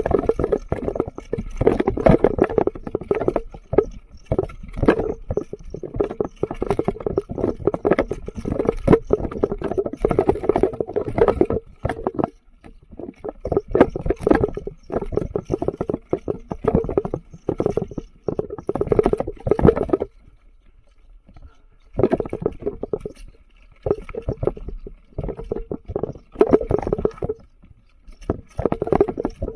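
Mountain bike rattling and clattering over a rough, stony trail, with a dense run of knocks and scrapes. It drops away briefly a few times, most clearly about 20 seconds in.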